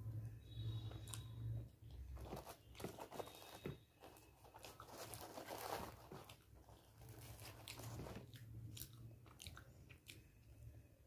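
Close-miked chewing of luchi, deep-fried puffed bread, with chana dal: soft wet mouth sounds and clicks in uneven bursts. About halfway through, a crisp luchi is torn apart by hand with a dry crackle. A faint low hum sits underneath at times.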